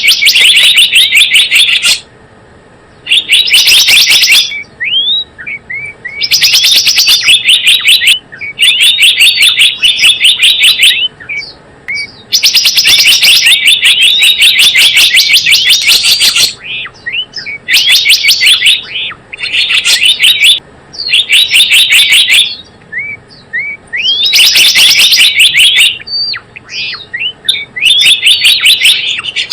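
Gelatik bloong bird call, as used for luring: loud bursts of rapid, repeated high chirps, each burst lasting a few seconds, with scattered single rising notes in the gaps between bursts.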